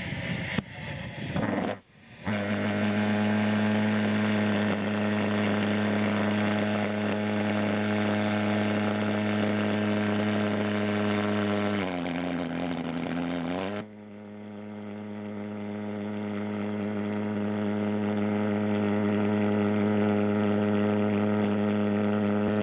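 Pulse jet engines of a model aircraft running at full blast: a steady, loud, low buzzing drone. It starts abruptly about two seconds in, dips in pitch briefly before a sudden break, then builds back up to the same steady drone.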